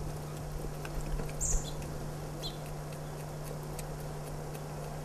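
A few short, high bird chirps about a second and a half in, over a steady low hum, with faint clicks and low knocks from a black-tailed deer licking food off a small plate.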